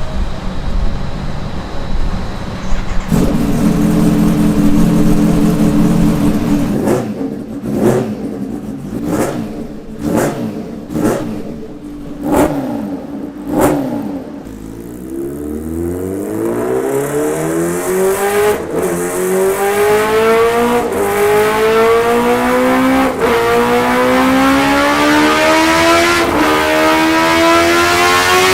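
Kawasaki Ninja H2R's supercharged inline-four running on a dynamometer: it holds a steady fast idle, takes a quick series of sharp throttle blips, then makes a long full-throttle pull that rises in pitch through the gears, dipping briefly at each of about four upshifts.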